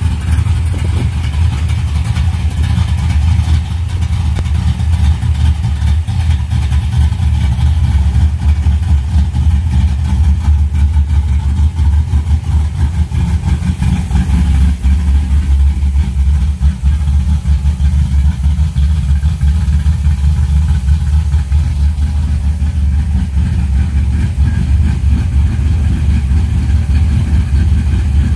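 A 1968 Camaro's 355 cubic-inch small-block Chevy V8, built with a solid roller cam and Hooker Super Comp headers, idling loudly and steadily.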